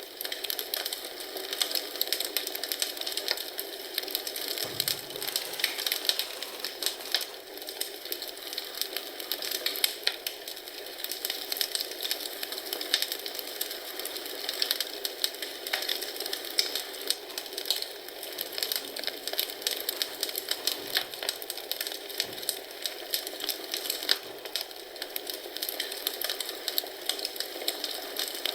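Wood fire burning in a fireplace, crackling steadily with dense sharp pops over a soft hiss, and a few faint low thumps about five seconds in and again around twenty seconds in.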